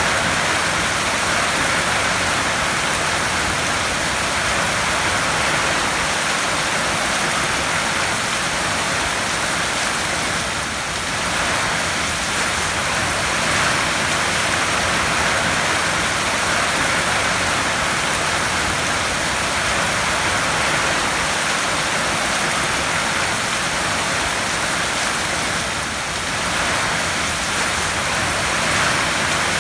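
Heavy rain falling on a tin roof: a dense, steady hiss with slight swells in loudness.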